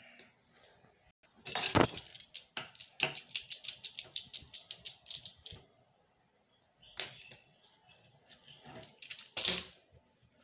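Rolling pin clicking and knocking on a kitchen work surface as it is picked up and set to the dough: a run of sharp clicks at about four a second, then two more knocks near the end.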